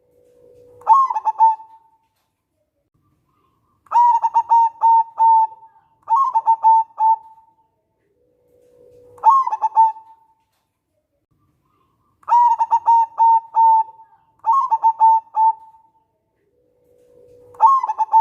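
Zebra dove (perkutut) cooing: about seven phrases, each a lower drawn-out note followed by a quick run of rolling coos, with short silent gaps between phrases.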